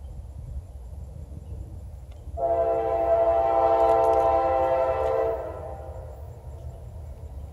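Diesel locomotive air horn, a Norfolk Southern AC44C6M leading an intermodal train, sounding one long blast of several tones together about two and a half seconds in, lasting about three seconds. A low rumble of the approaching train runs beneath it.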